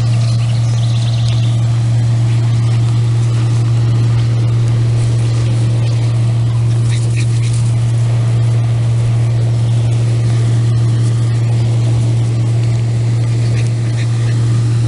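Loud, steady low hum that holds unchanged throughout, with a few faint, short high-pitched sounds over it.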